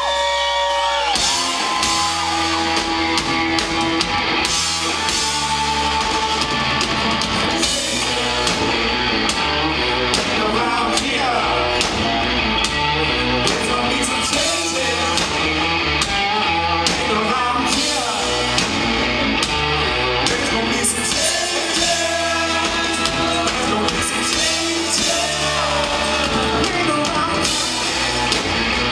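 Rock band playing live: loud, continuous amplified rock music with singing.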